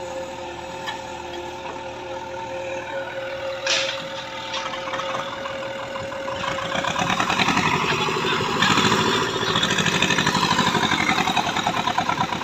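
Heavy diesel engine of earth-moving machinery running, with a steady whine for the first half and a sharp clank about four seconds in. About halfway it grows louder, with a fast, even pulsing beat.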